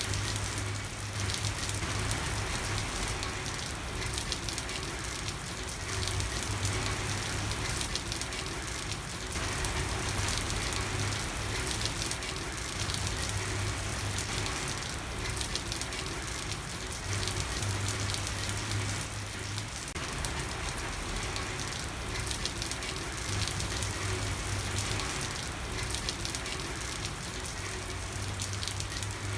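Steady rain falling on a street, an even hiss with fine patter. A low hum comes and goes every few seconds beneath it.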